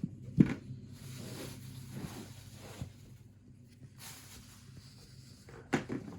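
Handling noises from food preparation: a sharp knock, then rubbing and brushing sounds, and two more knocks near the end.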